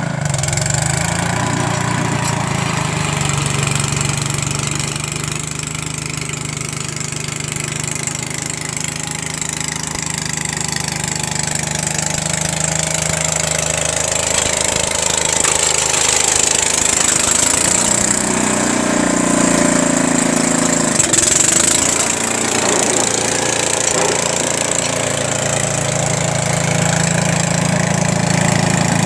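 Rapid S Super two-wheel tractor's engine running continuously while snowblowing, its engine note shifting up and down in places.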